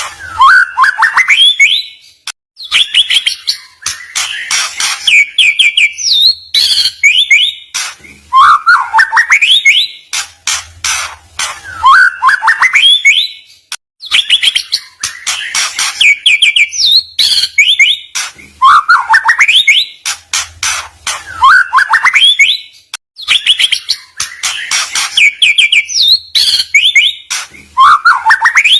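A caged songbird singing loudly and without pause: fast phrases of rising whistled sweeps and rapid trills, the same song sequence coming round again about every five to six seconds.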